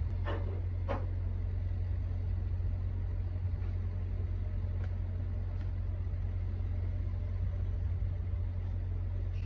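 Semi truck's diesel engine idling: a steady low rumble, with two short higher-pitched sounds in the first second.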